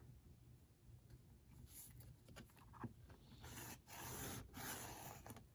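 Faint scratchy rubbing on paper starting about three seconds in, in a few strokes with short breaks between them, as in scoring or marking paper during hand bookbinding.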